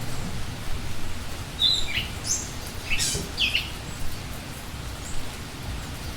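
Birds calling in a few short chirps and whistles in the first half, over a steady background hiss of forest ambience.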